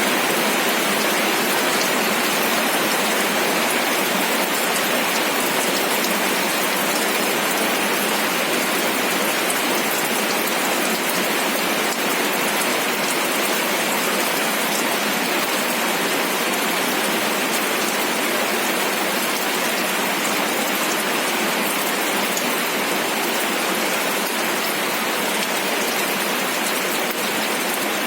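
Steady rain falling, a dense even hiss of drops with fine individual patters.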